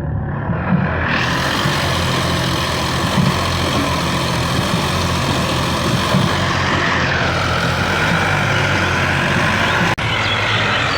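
Sonalika tractor diesel engines running hard and steady under load in a tractor tug-of-war. A dense rushing noise builds over them about a second in, and there is a momentary break near the end.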